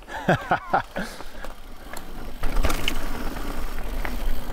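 Mountain bike riding down a trail: tyre rumble, rattle and wind noise that build and grow loud about two and a half seconds in. A few short falling squeals come near the start.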